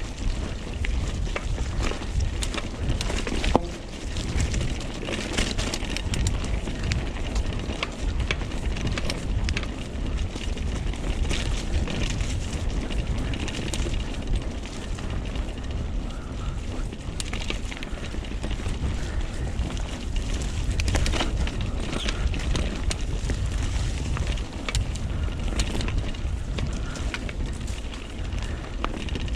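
Mountain bike riding down a dirt trail: steady wind rumble on the camera microphone, tyres running over dirt and stones, and the bike rattling with frequent short knocks.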